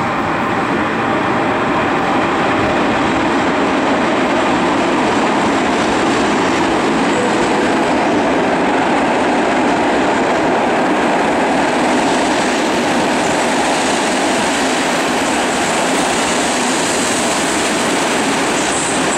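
PKP EU07 electric locomotive and its passenger coaches rolling past at close range as the train pulls into the platform: a steady, loud rumble of wheels on rails.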